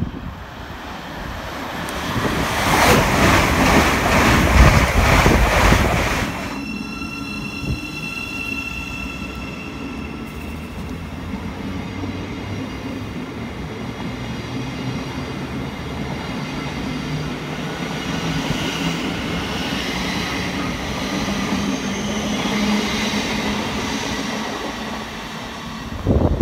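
Electric multiple-unit passenger train running into the platform: a loud rush of wheels on rail for a few seconds, then a steady high whine from the train with a lower hum that swells later on.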